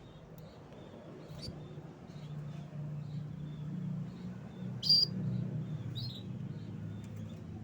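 Canary chirping: short, high chirps repeated throughout, the loudest one about five seconds in. A low, steady rumble runs underneath and grows louder.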